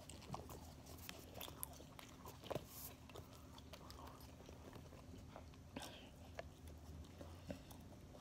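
Faint mouth sounds of chewing, with light clicks and rustles as the cap of a plastic salad-dressing bottle is twisted off.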